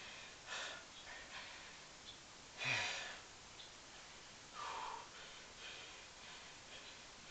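A man breathing hard from the exertion of continuous one-leg squats: short forceful breaths every second or two, the loudest a sharp exhale about two and a half seconds in.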